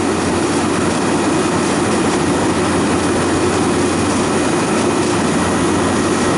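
Refrigeration condensing unit running steadily, its compressor and condenser fan making a dense, even hum-and-rush, while it is being charged with refrigerant.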